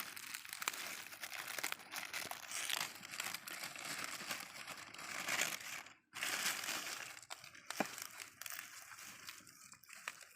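Crinkling, rustling handling noise with small irregular crackles as a stingless bee hive's covering is handled and pulled away to open the hive.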